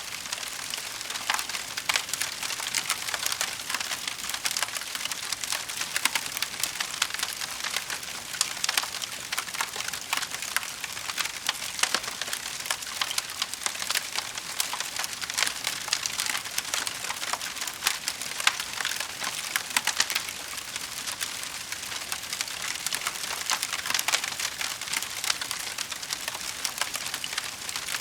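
Wood fire crackling and popping steadily, dense small snaps over a soft hiss of burning logs.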